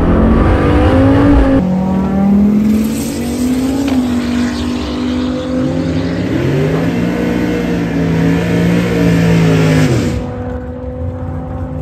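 Turbocharged GM Vortec 3500 inline five-cylinder engine running hard at high rpm, its pitch climbing and falling between shifts. About ten seconds in, the pitch falls sharply and the sound drops away as the throttle closes.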